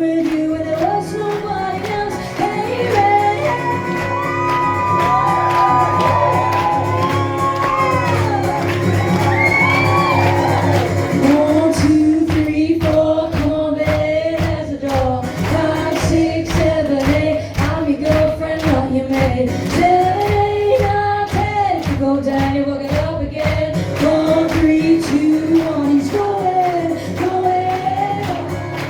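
Live band playing an up-tempo hoedown-style song with a fast, steady beat and singing, heard in a large hall, with shouts near the start.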